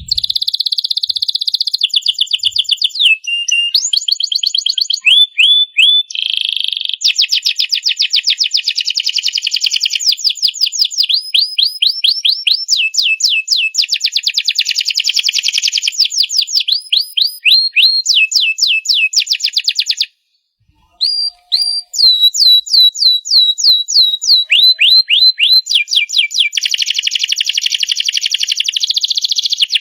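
Domestic canary singing a long, continuous song of fast trills and rapidly repeated sweeping notes, changing from one phrase to the next every second or two, with a brief pause about two-thirds through.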